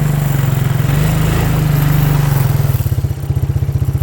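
Small engine running steadily, then winding down near the end, its firing pulses spreading out as it slows toward a stop.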